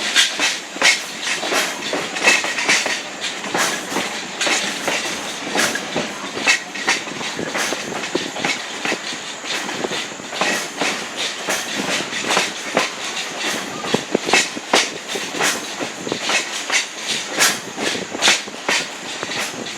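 Passenger coach rolling along the track: its wheels click and knock unevenly over rail joints under a steady rattle of the moving car.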